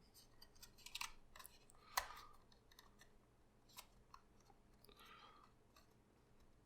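Faint crinkling and ticking of thin paper as a papercraft model is folded and pressed together by hand. There is one sharper tap about two seconds in and a brief rustle near the middle.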